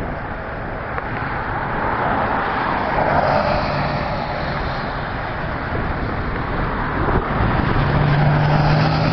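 Road traffic: vehicles going by, a noisy wash of tyre and engine sound that swells twice, with a low engine hum under each swell.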